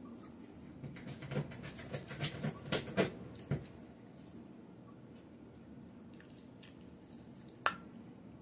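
Close-up mouth sounds of eating: chewing with a run of wet clicks and smacks over the first few seconds, then quieter chewing, and one sharp click near the end.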